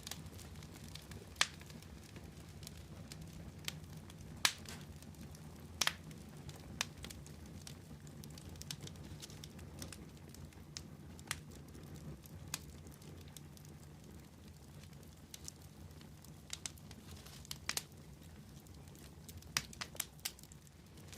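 Wood fire burning with a steady low rumble, broken by scattered sharp crackles and pops, a few louder snaps standing out.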